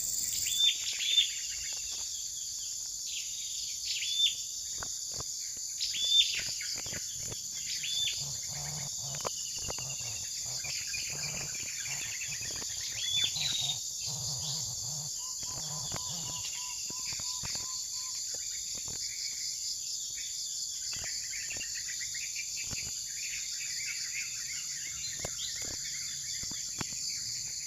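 Tropical forest ambience: insects drone steadily and high while a bird repeats sharp, falling chirps, mostly in the first half. Faint scattered clicks and taps run through it.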